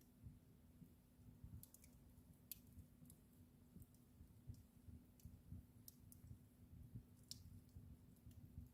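Wood fire burning in a fireplace, faint, with scattered sharp crackles and pops over a low rumble of the flames.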